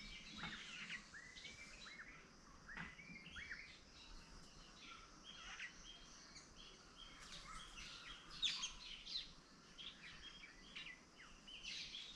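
Several wild birds chirping and calling together, with many short overlapping chirps and a louder sharp chirp about eight seconds in.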